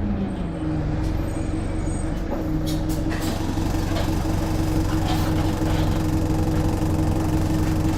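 A bus's engine and drivetrain running under way. A whining tone drops in pitch within the first second and then holds steady over a low drone, with a few brief rattles about three seconds in.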